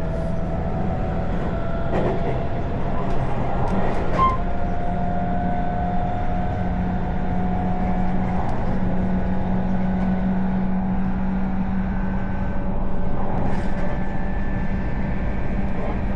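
Electric commuter train running along the line: a steady rumble of wheels on track with a faint hum in it, and a few light clicks about two to four seconds in.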